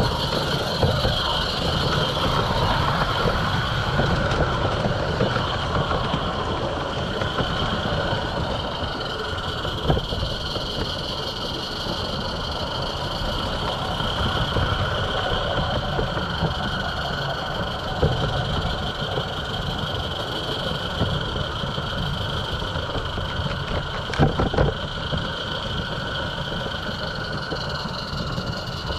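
Roundhouse Katie live-steam garden-railway locomotive running along the track: a steady running noise with a few sharp clicks from the rails.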